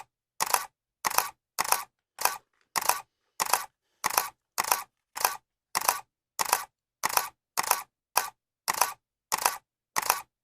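Camera shutter clicking over and over, about two clicks a second, evenly spaced, with silence between each click.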